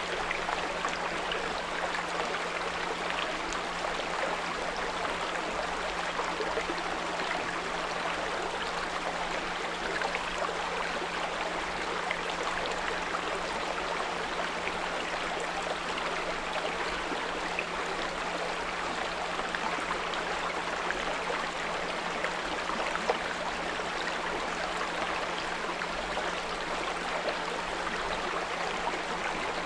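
Small brook babbling and trickling steadily, with a steady low 174 Hz pure tone held underneath the water.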